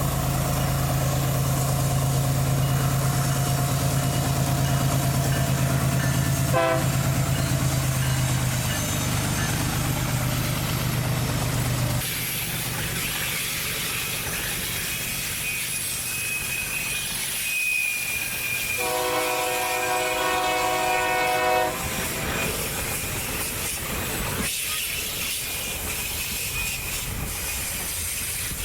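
Diesel freight train running, with a steady low locomotive engine hum that drops away abruptly about twelve seconds in. Later a locomotive horn sounds once for about two and a half seconds.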